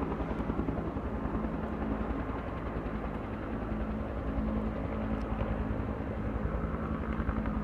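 Logging helicopter's rotor and turbine running steadily, with a rapid even beat of blade chop, as it ferries logs.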